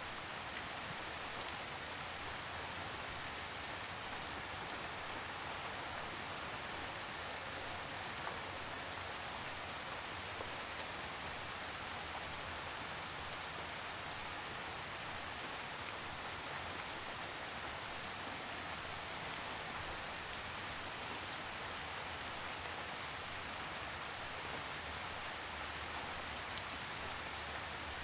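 Steady gentle rain: an even hiss of falling rain with scattered faint drop ticks.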